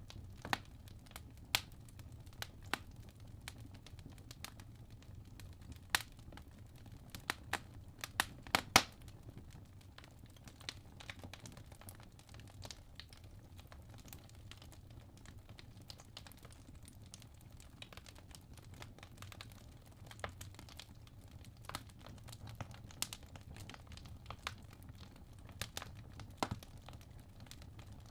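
Wood fire burning in a fireplace: a low steady rumble of the flames with irregular sharp crackles and pops from the logs, a quick cluster of louder pops about eight seconds in.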